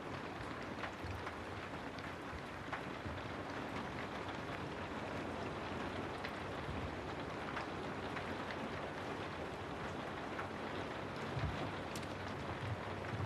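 Steady rain noise with many scattered sharp taps of drops and a low rumble underneath.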